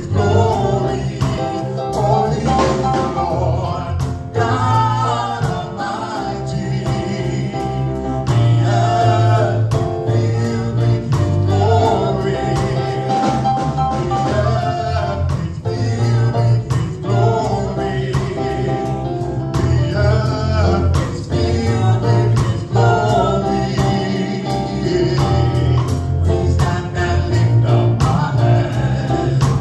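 Gospel praise band and singers performing a worship song: steady bass and drums under a group of voices singing together.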